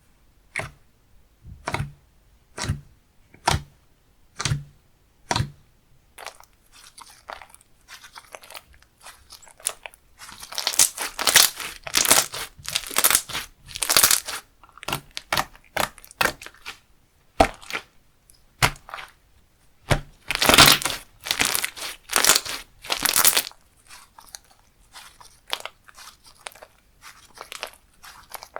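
Slime being played with by hand: about six soft presses roughly a second apart, then from about ten seconds in louder, dense crackly squishing that eases off near the end.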